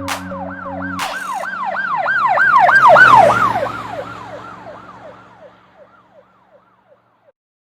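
A siren with a fast yelp, its pitch sweeping up and down about three times a second. It grows louder to a peak about three seconds in, then fades away as if passing by, while the last notes of music die out underneath in the first second.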